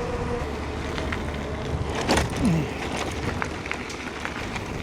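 Wind buffeting the microphone and tyre rumble from an e-mountain bike rolling along, with a few short clicks and rattles.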